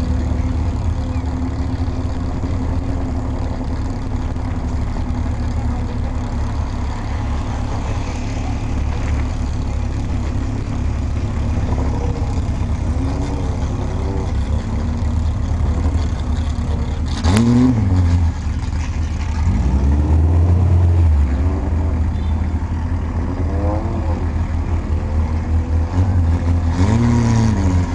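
Vintage Fiat race car's engine running at low speed, with several short revs whose pitch rises and falls. A single sharp click comes a little past the middle.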